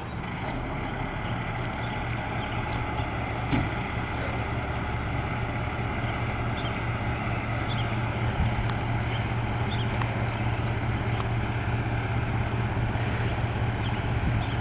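Vehicle engine running with a steady low drone, level throughout, with a few faint light ticks and chirps over it.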